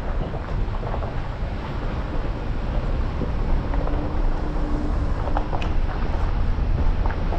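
Jeep Gladiator driving on a backroad: steady low engine and road rumble, with wind buffeting the microphone and a few small knocks from the gravel surface.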